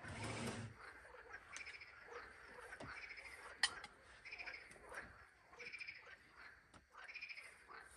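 Frogs calling by a lake, short pulsed calls repeating about once a second. There is a dull thump at the start and a single sharp click about three and a half seconds in.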